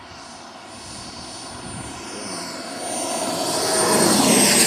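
Turbine-powered RC F-86 Sabre jet model (Frank turbine) flying toward and past, its high turbine whine and jet rush growing steadily louder and peaking near the end, where the pitch begins to drop.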